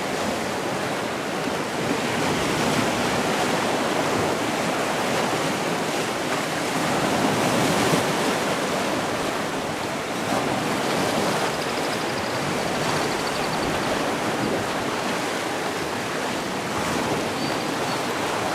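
Sea surf: waves washing in as a continuous rushing noise, swelling to a peak about midway through before easing back.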